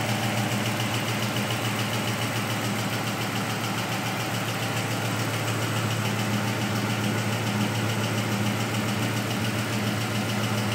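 Ford Coyote 5.0-litre V8 idling steadily on its first run, heard through long-tube headers, an X-pipe and 3-inch Magnaflow exhaust.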